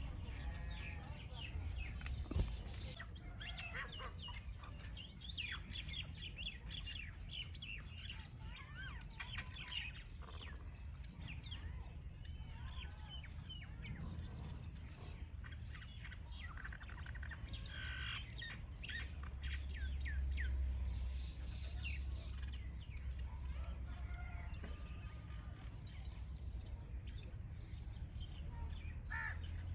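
Several small birds chirping and twittering, many short high calls overlapping and scattered throughout, over a steady low rumble. One sharp click about two seconds in.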